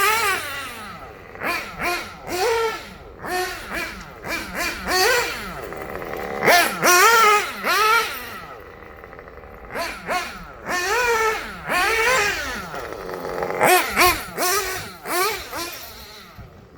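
Small two-stroke nitro engine of a 1/8 scale RC buggy with a Dynamite 053 tuned pipe, revved in a series of short throttle blips, each rising and falling in pitch.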